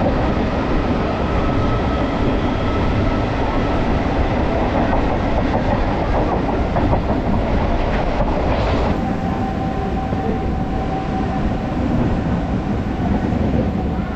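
MEMU electric passenger train running along the track, its wheels clattering over the rails under a continuous rumble. About nine seconds in a brief hiss swells and fades, and a steady whine carries on after it.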